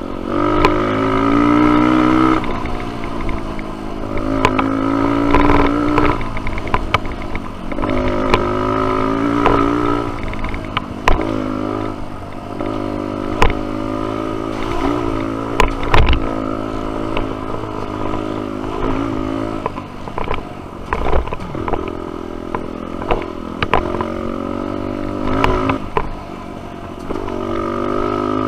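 Dirt bike engine being ridden on a trail, its revs climbing and dropping again and again as the throttle opens and shuts, with sharp knocks and clatter from the bike over rough ground.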